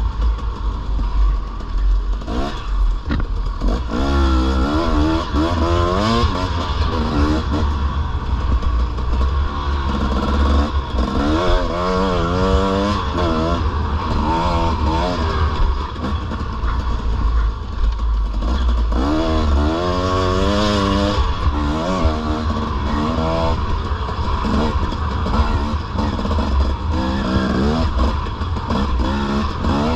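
Dirt bike engine being ridden, its pitch rising and falling again and again as the throttle is worked, over a steady low rumble.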